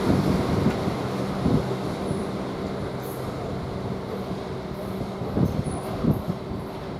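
Class 196 diesel multiple unit pulling away, its engine and transmission giving a steady low hum over rumble. The tones fade out about five seconds in as the train draws off.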